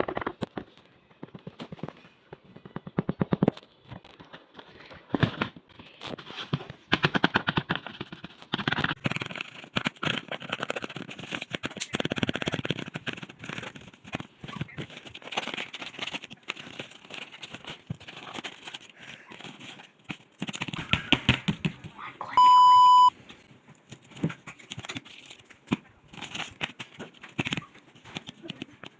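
Crinkly plastic blind-bag packaging being handled and torn open by hand, giving bursts of rapid crackling and rustling. About three quarters of the way through there is one short, loud electronic beep.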